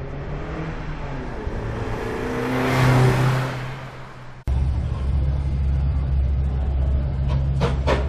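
A car engine running steadily, swelling loudest about three seconds in as a car passes close by, then fading. After an abrupt cut, a car engine runs with a steady deep rumble, with a quick run of sharp clicks near the end.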